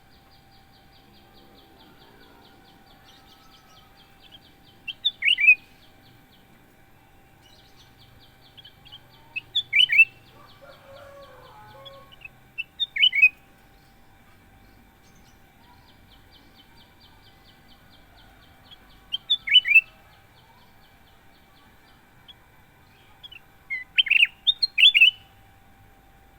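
Kutilang emas bulbul calling in five short bursts of quick, clear notes, each burst a few seconds apart, the last one a little longer. A faint, fast, even trill runs in the background between the bursts.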